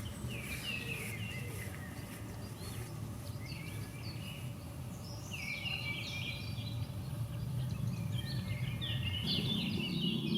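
A songbird singing in short phrases of quick, high notes: one phrase falls in pitch near the start, and denser phrases come about halfway through and near the end. A steady low rumble runs underneath.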